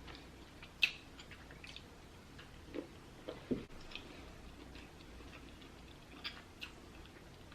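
Quiet eating sounds: scattered soft mouth clicks and smacks while chewing, with two dull low thuds about three seconds in.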